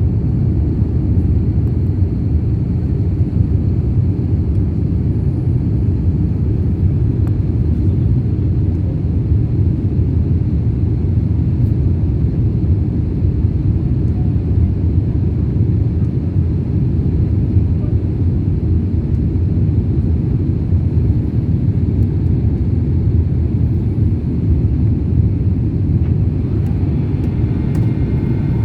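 Jet airliner climbing after takeoff: a steady, loud low rumble of engines and airflow.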